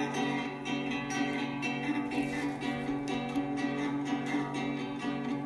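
Acoustic guitar playing, plucked notes ringing over a sustained chord: the instrumental opening of a song.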